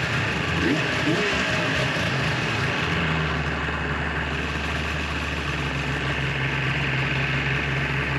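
2004 Yamaha Viper snowmobile's two-stroke triple engine running, settling to a steady idle about three seconds in, with its exhaust valves freshly cleaned and manifold repaired.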